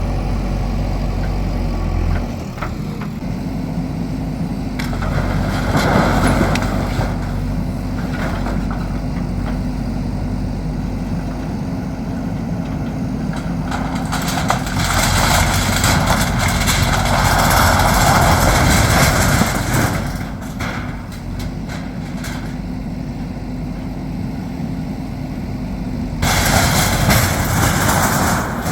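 Heavy diesel engine running steadily, with louder stretches of harsh noise about five seconds in, for several seconds in the middle, and near the end.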